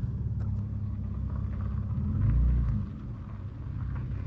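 Car engine idling steadily, with a louder low swell about two seconds in before it settles again.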